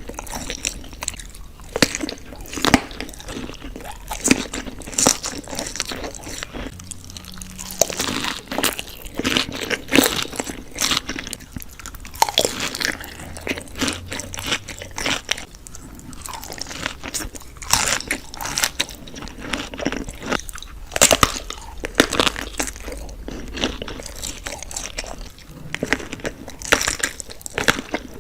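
Close-miked eating: a person biting and chewing crunchy food, with many irregular sharp crunches and crackles.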